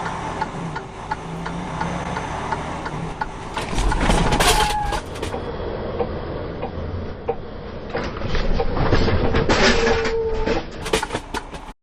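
Road and engine noise from a moving vehicle, picked up by a dashcam, with rattling clicks throughout. It gets louder twice, about four seconds in and again near ten seconds, each time with a brief held tone.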